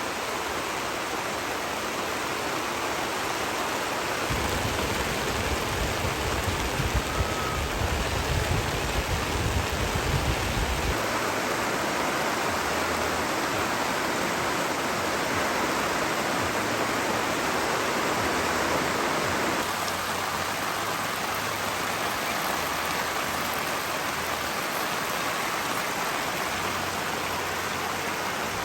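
Steady rushing of water, a dense even hiss, with a low rumble added between about four and eleven seconds in.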